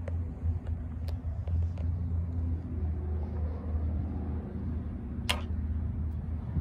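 The 2003 VW Beetle GLX's 1.8-litre turbocharged four-cylinder idling with a steady low hum. A single sharp click comes about five seconds in.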